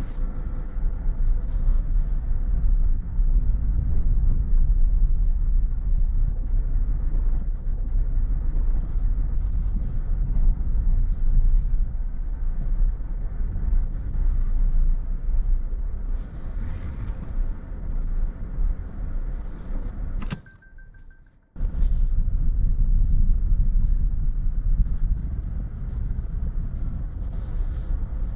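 Steady low road and engine rumble of a car, heard from inside the cabin while driving. About two-thirds of the way through, the sound cuts out abruptly for about a second, then resumes.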